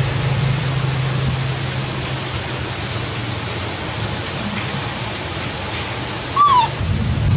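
Heavy rain falling steadily, a constant hiss. About six and a half seconds in, a brief high squeak that falls in pitch.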